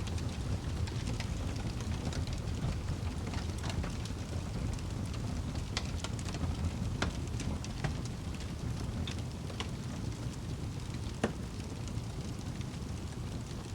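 Wood fire burning in a fireplace: a steady low rumble of flames with irregular sharp crackles and pops, one louder pop about eleven seconds in.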